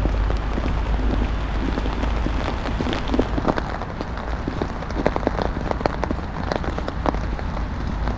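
Sleet and rain drops falling and ticking irregularly on a surface, dozens of sharp drips over a steady low rumble.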